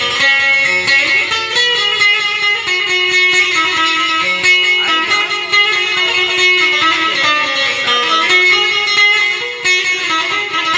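Instrumental break in a Kurdish song: an amplified plucked string instrument plays a quick, many-noted melody with accompaniment and no singing.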